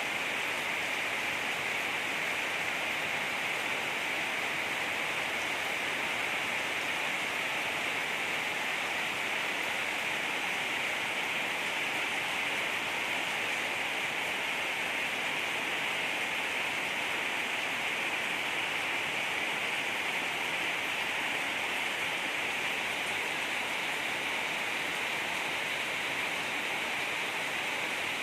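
Heavy rain falling in a steady, even hiss with no breaks.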